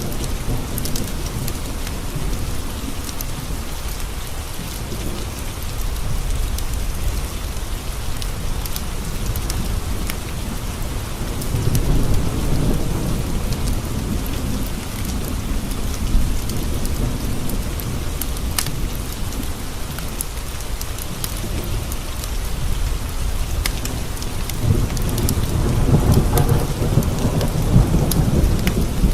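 Steady heavy rain on window glass, with rolling thunder. The rumble swells about twelve seconds in and again near the end, and scattered sharp ticks run over the rain.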